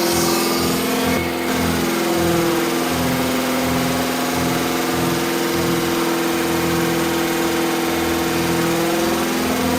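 Engine running steadily at a raised idle during camshaft break-in.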